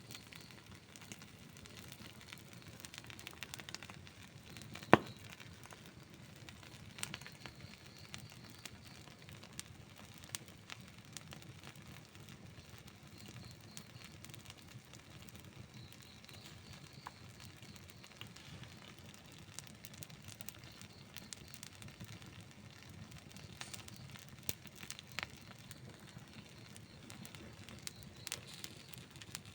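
Wood campfire burning with a steady low rush of flames and scattered irregular crackles and pops, one louder pop about five seconds in.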